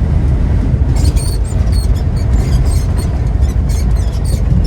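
Steady low rumble of a semi-truck's engine and road noise inside the cab, with many short, high-pitched squeaks starting about a second in.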